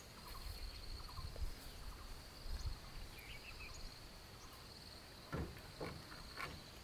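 Insects, likely crickets, chirring as a steady high buzz in the background, with a few faint knocks a little after five seconds in.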